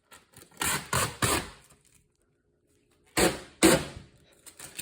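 Protective plastic film being peeled off a new refrigerator in short pulls: a series of brief ripping, crackling tears, three in quick succession, then two more after a pause.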